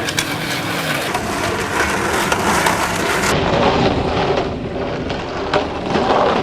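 Skateboard wheels rolling on pavement, with scattered sharp clacks from the boards.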